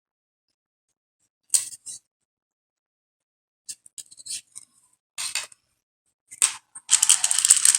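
Plastic pony beads and aluminum craft wire clicking in a few short scattered bursts as the wire is threaded and pulled, then from about seven seconds in a dense, continuous rattle of loose plastic beads.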